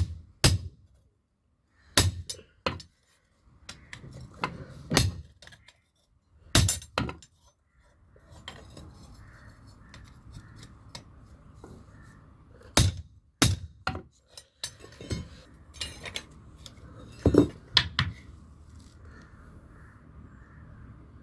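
Irregular sharp metallic clinks and knocks of steel tools and metal being handled and struck, in scattered groups with short quiet gaps between them. A faint steady hiss sits behind them from about a third of the way in.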